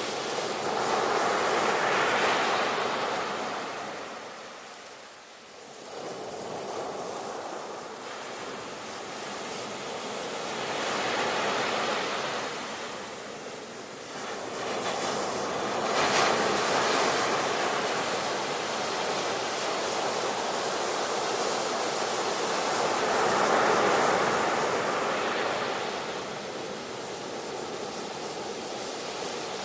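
Ocean waves breaking and washing on the shore, the surf swelling and ebbing every several seconds, with a sudden hiss of a breaking wave about 16 seconds in.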